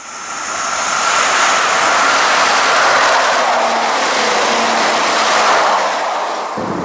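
Alstom Régiolis Intercités multiple unit passing close by at speed: a loud, steady rush of wheels on rail and air that swells over the first second and eases slightly near the end.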